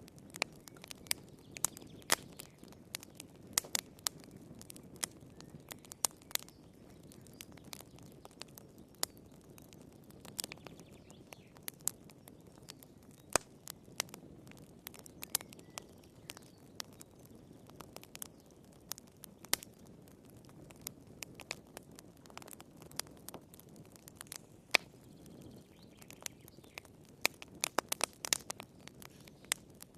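Wood fire crackling in a fireplace: irregular sharp pops and snaps over a soft low rumble of flames, with a quick cluster of pops near the end.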